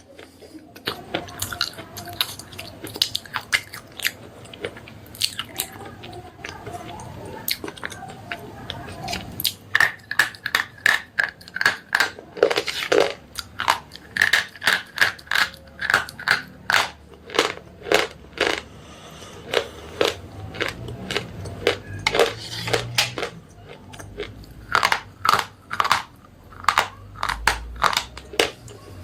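Slate pencils being bitten and chewed close to the microphone: a long run of sharp, dry crunches, coming thickest through the middle and again near the end.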